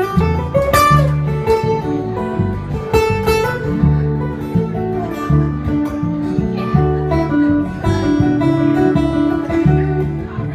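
Instrumental break of a country/folk song: acoustic guitar strumming over bass, with melodic notes played on top.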